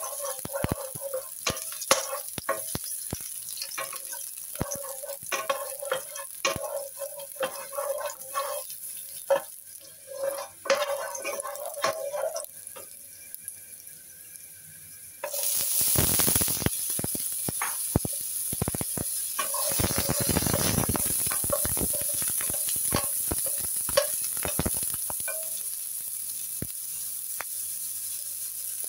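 Ginger and garlic slices sizzling in oil in a nonstick wok, with a wooden spatula scraping and tapping the pan in many quick clicks. About halfway through, the sizzle jumps suddenly louder into a steady hiss that stays up.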